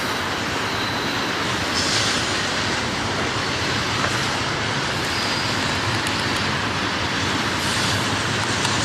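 Freight train rolling past on the rails: a steady, loud rolling noise of steel wheels on track, with a faint high wheel squeal now and then.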